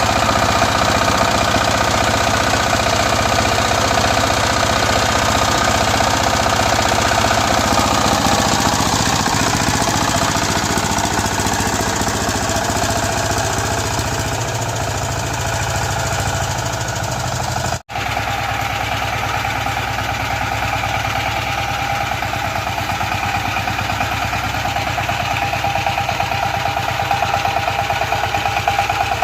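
Power tiller engine running steadily with a rapid, even firing beat. The sound breaks off for an instant about two-thirds of the way through, then carries on the same.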